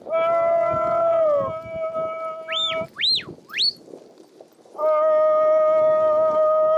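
Long drawn-out howling calls, each held on one pitch for two to three seconds and dropping away at the end: one at the start and one starting near the end. Between them come three quick whistle-like notes that swoop up and down.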